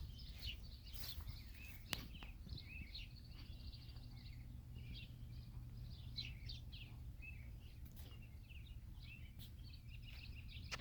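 Faint bird chirps and calls over a steady low hum, with a single sharp click about two seconds in.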